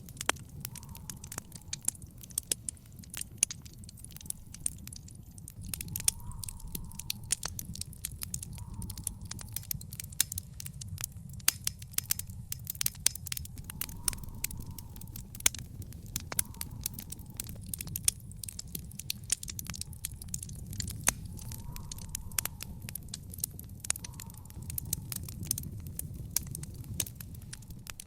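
Wood fire in a fire pit crackling and popping: irregular sharp snaps, several a second, over a steady low rumble of the burning fire.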